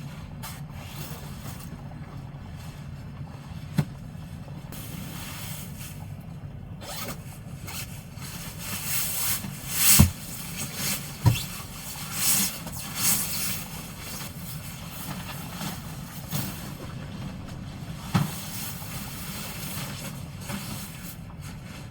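Typhoon wind gusting around a kei-truck camper, with a low steady hum. Gusts surge several times about halfway through, and sharp knocks and thumps sound four times.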